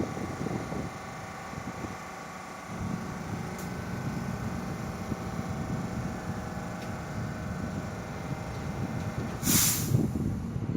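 New York City subway train running on the track with a steady low rumble, and a sharp burst of air hiss from its brakes about nine and a half seconds in.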